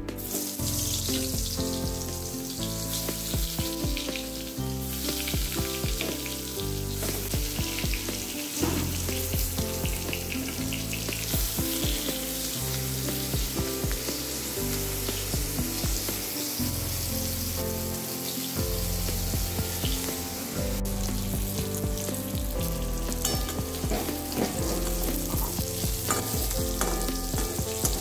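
Turmeric-and-salt-marinated eggplant slices shallow-frying in hot oil in a steel kadhai, sizzling steadily, with background music underneath.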